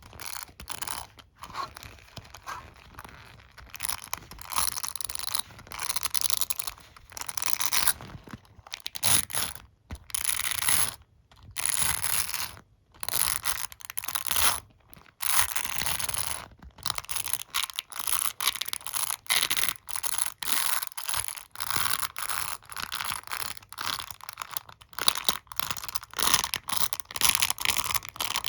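Hairbrush bristles rubbed and scratched right at the microphone, in quick scratchy strokes separated by short pauses.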